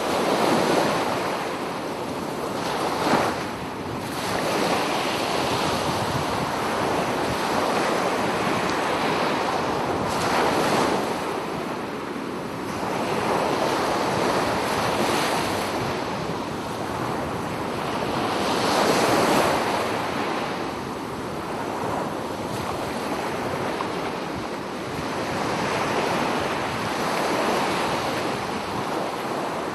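Sea waves breaking and washing on a shore, a continuous rush of surf that swells and ebbs every few seconds.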